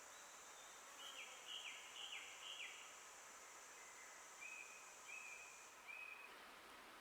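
Woodland songbird singing softly: a run of four quick notes, each ending in a downward slur, then three short level whistles a little lower. Under it a steady high insect drone cuts off near the end.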